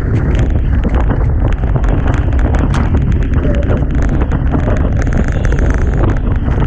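Heavy wind buffeting the microphone, with rushing water and scattered sharp crackles of spray, on a Hobie Tiger catamaran sailing at speed in strong wind.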